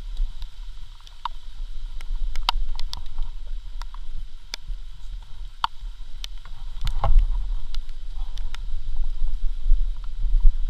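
Low, fluctuating rumble of wind buffeting the microphone during a dirt bike ride, with scattered sharp ticks and knocks and a louder cluster of knocks about seven seconds in.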